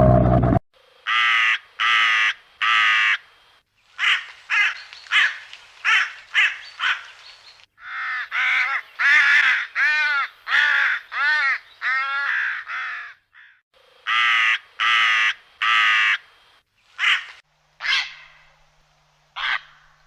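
A bird cawing harshly, call after call. The calls come in groups of three to six, with short pauses between the groups.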